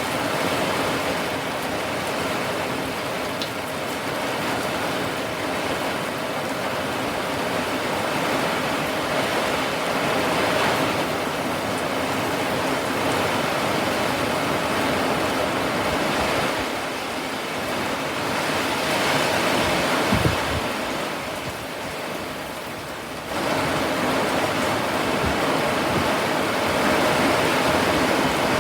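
Steady rain falling, a dense even hiss. It eases slightly about three-quarters of the way through, then abruptly returns to full strength.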